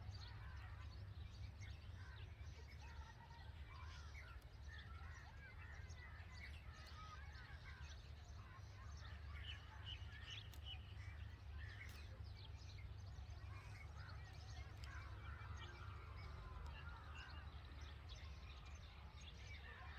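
Faint, scattered chirping of red-vented bulbuls at a nest, over a steady low rumble.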